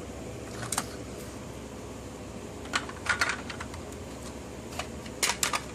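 Scattered light clicks and taps of plastic Lego train parts being handled, in small clusters a few times.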